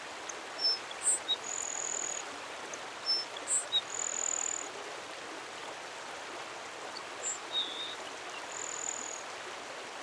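A songbird giving very high, thin whistles: short pips and three longer held notes spaced a few seconds apart, over a steady rush of running water.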